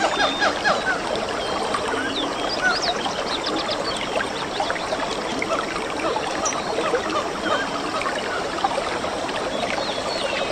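A forest soundscape: many birds chirping and calling in short rising and falling notes over the steady rush of running water. Near the end a rapid, evenly pulsed low call joins in.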